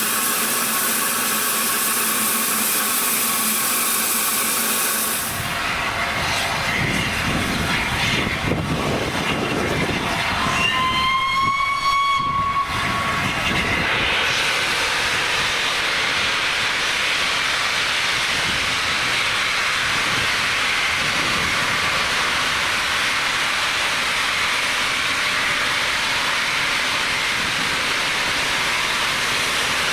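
Steam locomotive with steam hissing loudly, and a single whistle blast of about two and a half seconds roughly ten seconds in, followed by a steady hiss.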